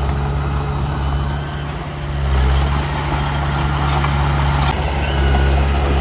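Heavy diesel engine of earthmoving machinery running steadily, easing off briefly about two seconds in and then picking up again.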